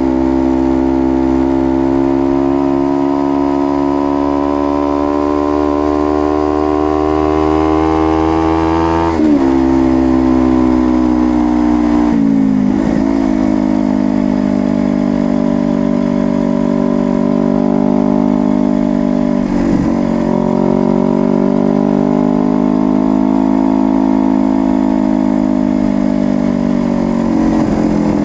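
Honda CBR250RR motorcycle engine running under way. Its note climbs slowly for about nine seconds, then dips sharply four times, with gentler rises and falls in between.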